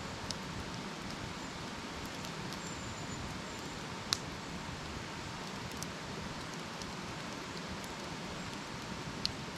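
Wood campfire burning: a steady hiss with scattered small crackles and two sharp pops, the louder about four seconds in and another near the end.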